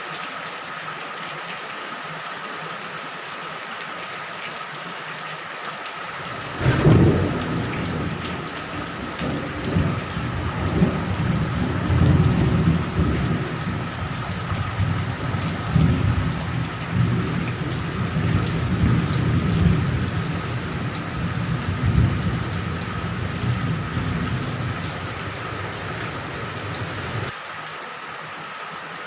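Steady heavy rain with thunder. About six seconds in a thunderclap cracks, then rolls on as a low, surging rumble for some twenty seconds before stopping abruptly near the end.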